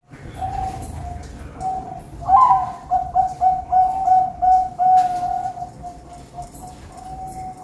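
Zebra doves (perkutut) cooing in clear, high, whistle-like notes. About two seconds in, a louder bird starts a quick run of short coos, about four a second, which settles back into longer, steadier notes.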